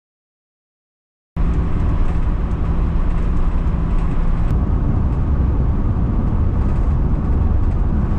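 Dead silence for about a second and a half, then the steady low rumble of a van driving on the highway, engine and road noise heard from inside the cab.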